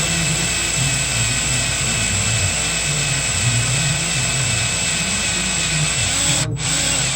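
Power drill running steadily with a steady high whine, a left-handed bit cutting into a broken 6.7 EGR bolt, with a brief stop about six and a half seconds in.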